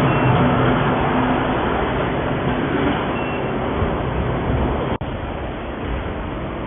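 Steady, loud running noise of a small induction gold-melting furnace and its cooling equipment, with a low hum in the first few seconds. The sound drops out for an instant about five seconds in and comes back a little quieter.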